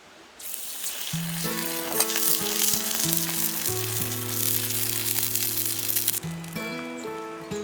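Food sizzling on a hot small round iron griddle plate: a loud frying hiss that starts suddenly about half a second in and dies down near the end. Background music plays over it from about a second in.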